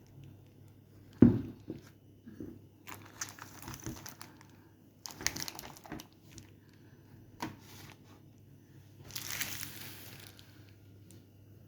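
Crinkling and rustling, as of packaging being handled, in several bursts, with one sharp knock about a second in.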